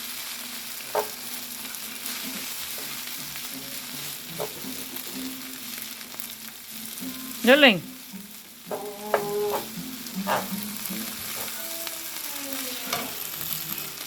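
Wheat pancit noodles sizzling in a frying pan as they are stirred, with a few utensil knocks against the pan.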